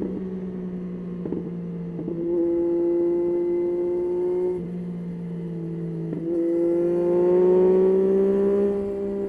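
Yamaha Tracer 9's three-cylinder engine heard from onboard while riding. The throttle opens about two seconds in and holds, eases off around the middle, then opens again with the engine note rising steadily before backing off near the end.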